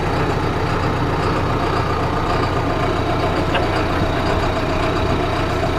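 John Deere tractor's diesel engine running steadily at a constant speed.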